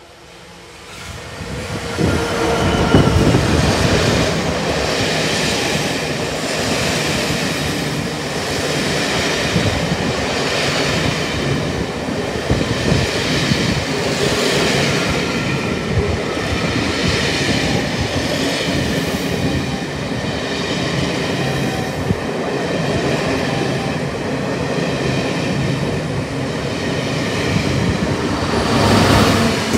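A British Rail Class 66 diesel locomotive passes at speed, then a long rake of passenger coaches rumbles by, their wheels clattering in a steady beat about every one and a half seconds. Near the end a second Class 66 at the rear of the train goes past, louder again with its engine.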